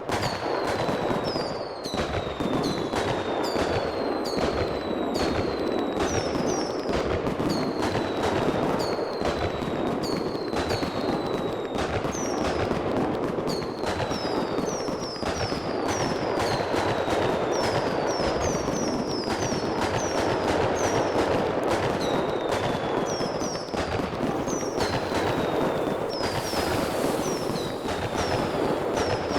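Fireworks going off in a dense, continuous barrage: sharp bangs several times a second over a steady crackling rumble, with many short whistles falling in pitch.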